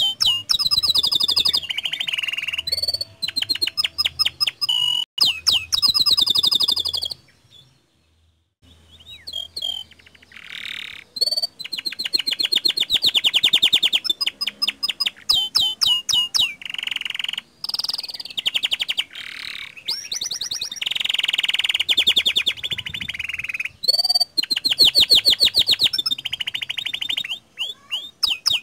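Domestic canary in full, continuous song: long runs of fast trills and rolling warbled phrases, broken once by a pause of about a second and a half, about seven seconds in.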